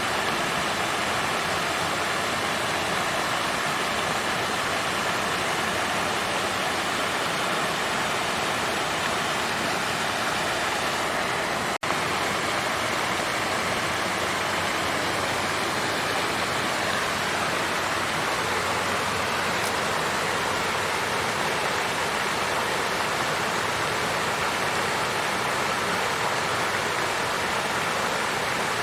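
Water fountain flowing: a steady, even rush of water, broken by a momentary dropout about twelve seconds in.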